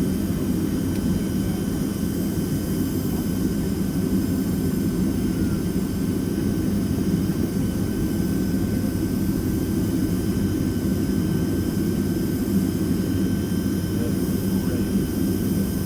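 Steady jet engine drone and rushing air heard from inside the cabin of a Boeing 767-300ER: a dense low rumble with a couple of thin, steady whining tones above it, unchanging throughout.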